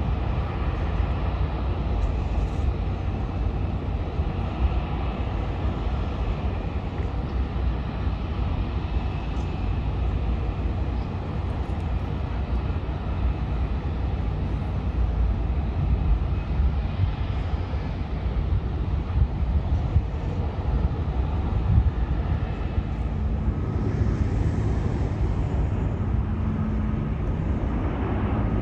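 Jet airliner engines running: a steady, continuous rumble, with a low steady tone joining in near the end.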